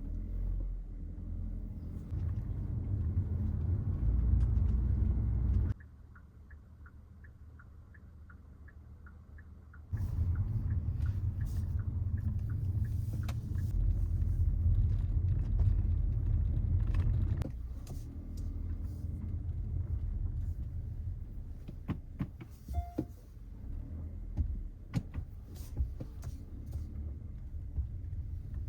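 Low rumble of a Kia Seltos driving, with road and engine noise. About six seconds in, the rumble drops away for some four seconds while a regular light ticking sounds, then the rumble comes back and later eases.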